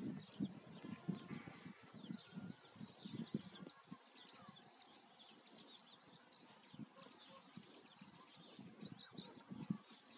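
Small birds chirping faintly in quick, scattered notes, under a low, gusty rumble on the microphone in the first few seconds and again near the end.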